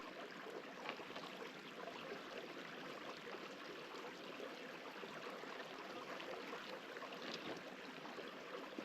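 Small desert creek running, a faint steady babble of water.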